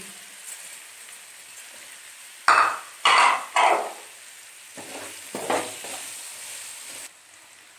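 Diced potatoes frying in oil in a wok with chicken and onions: a steady sizzle, with a few loud scrapes of a wooden spatula stirring them about two and a half to four seconds in and softer ones a little later. The sizzle drops a little near the end.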